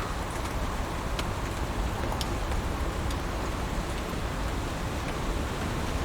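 Heavy rain falling steadily, an even hiss with a low rumble underneath, and a few single drops ticking out about a second and two seconds in.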